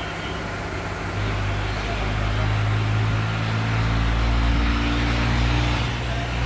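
Tractor engine running through a steel pipe exhaust silencer, picking up revs and getting louder about a second in, then holding a steady note.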